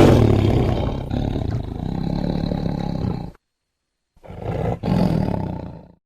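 A big cat roaring twice. The first roar is already going at the start and breaks off about three and a half seconds in; after a short silence a second roar lasts nearly two seconds.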